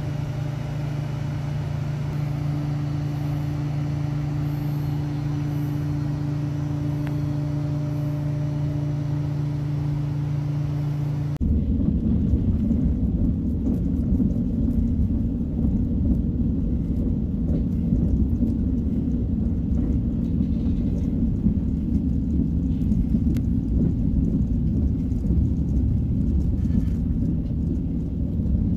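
A steady low hum with two held tones, then, after an abrupt change about eleven seconds in, the louder low rumble of a KTX high-speed train running at speed, heard from inside the carriage, with faint ticks.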